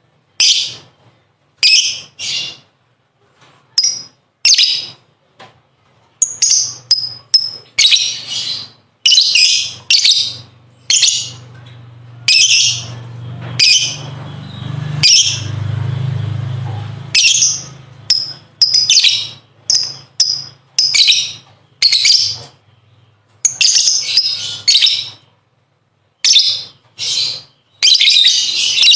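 Lovebird chattering in a rapid series of short, high-pitched bursts, some running together into longer strings: the 'ngekek' chatter of the lovebird Kusumo, used as a master recording for training other lovebirds. A low hum sits under the calls through the middle stretch.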